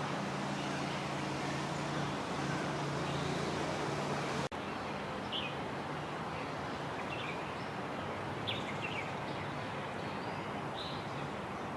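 Steady traffic hum with a low engine drone. After a break about four and a half seconds in, the hum continues with scattered short bird chirps.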